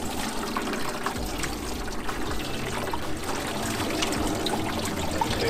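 Water pouring steadily into the drum of a Drumi foot-powered washing machine, filling it for a wash.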